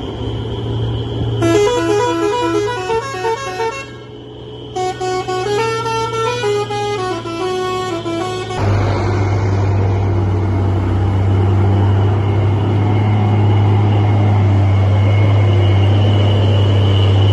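A truck's musical horn plays two short tunes of quickly stepping notes with a brief pause between, over the steady hum of the truck's engine. After the tunes the engine runs on louder.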